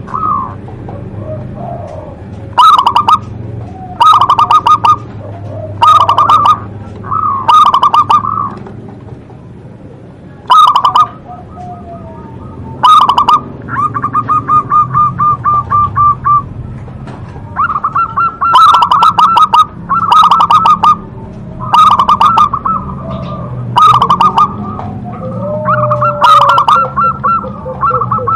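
Zebra dove (perkutut) cooing over and over: short phrases of fast rolling coos, with one long even trill about halfway through.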